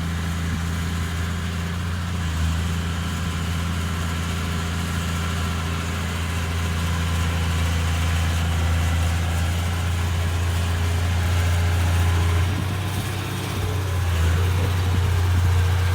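Heavy-equipment diesel engine running steadily at a low, even hum, easing up slightly in level toward the middle and dipping briefly near the end.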